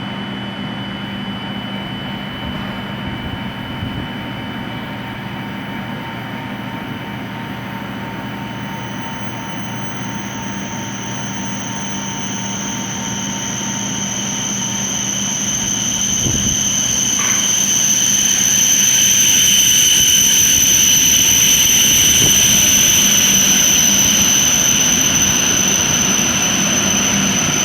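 Hokuriku Shinkansen train at the platform: a steady high-pitched whine over a low hum. The whine grows louder from about halfway through and then holds.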